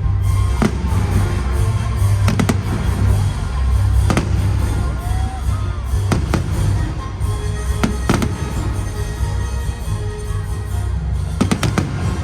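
Fireworks bursting in a series of sharp bangs, often in quick pairs, every second or two, over music with heavy bass played through stadium loudspeakers.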